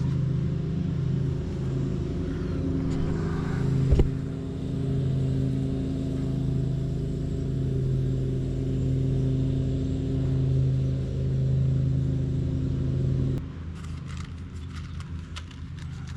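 An engine running steadily with a low hum, cutting off abruptly about thirteen seconds in. A single sharp knock about four seconds in, and faint clicks and rustling after the engine stops.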